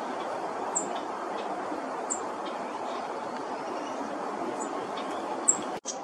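Short, high bird chip notes, a few seconds apart, over a steady background hiss of woodland ambience. The sound drops out for an instant near the end.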